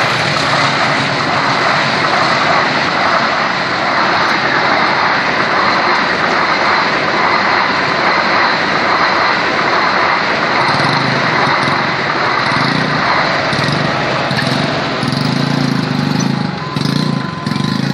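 Passenger train (KA Maharani) running fast over a level crossing: a loud, steady rush of carriages and wheels on the rails. About two thirds of the way through it fades away, and idling motorcycle engines come up.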